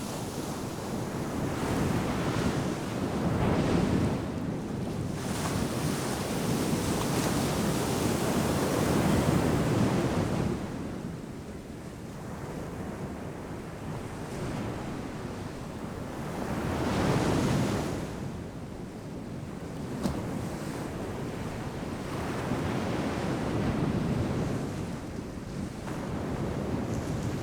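Ocean surf breaking and washing up a sandy beach in a steady rushing hiss. It swells loud and falls back with each wave, peaking three or four times.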